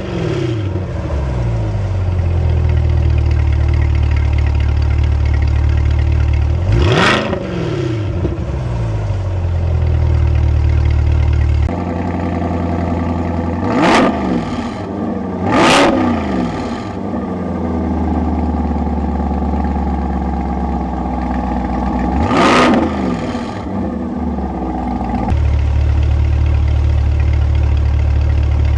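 C8 Corvette's V8 through an AWE aftermarket exhaust, idling and blipped four times: each rev climbs sharply and falls back to idle, two of them in quick succession in the middle.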